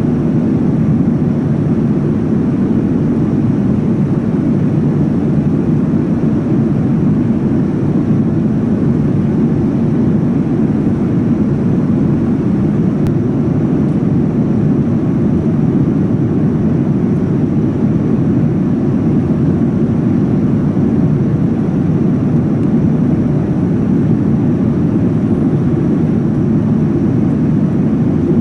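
Steady cabin noise of a Boeing 787-9 with GE engines, heard inside the passenger cabin: an even, unchanging low rumble with no distinct events.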